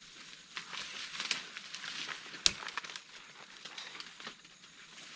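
Dry leaves and twigs crackling and rustling underfoot and against the body as someone moves through forest undergrowth, with one sharp snap about two and a half seconds in.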